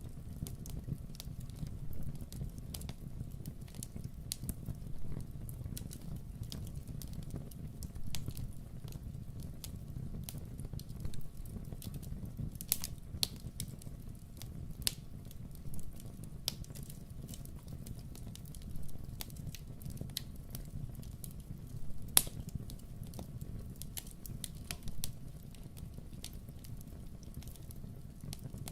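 Wood fire crackling in a fireplace: scattered sharp pops and snaps over a steady low rumble, with one louder pop about three quarters of the way through.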